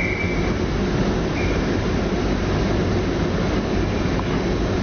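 Railway train running with a steady low rumble, and a brief high-pitched tone near the start.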